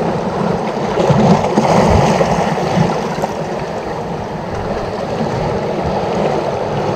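Seawater washing and lapping against shoreline rocks: a steady rushing, gurgling water noise.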